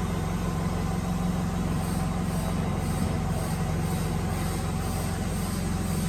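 Steady low hum of workshop machinery running, with no strokes or breaks.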